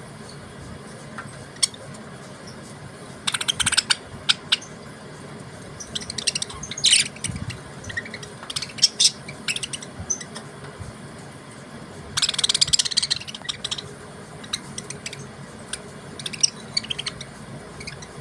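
Budgerigars chirping in short, scattered bursts, with the busiest flurries about three and twelve seconds in.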